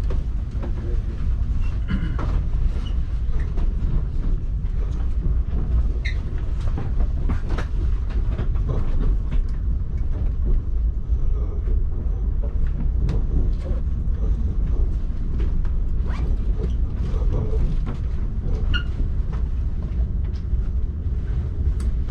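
ÖBB Railjet passenger train running: a steady low rumble with frequent clicks and knocks from the wheels over the track. Two brief high squeaks, about a quarter of the way in and again near the end.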